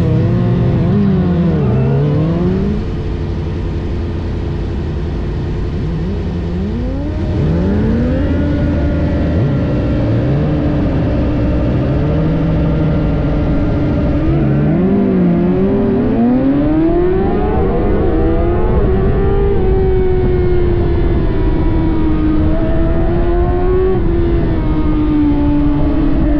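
Several 600cc sport bike engines revving in short blips, then accelerating hard at the race start about halfway through, their pitch climbing through the gears.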